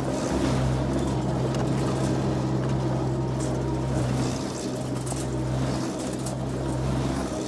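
A motor vehicle's engine running steadily, a low even drone with no change in speed.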